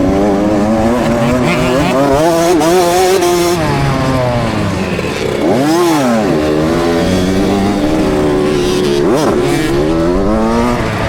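KTM 65 SX two-stroke motocross bike engine being ridden hard, heard from a helmet camera, its revs climbing and falling constantly; twice the revs sweep sharply up and back down, about six seconds in and again about nine seconds in.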